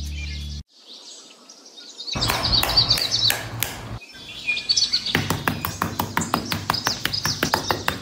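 Birds chirping, with a fast run of sharp clicks or taps that sets in about two seconds in and turns fairly regular over the second half. A low steady tone cuts off suddenly just under a second in.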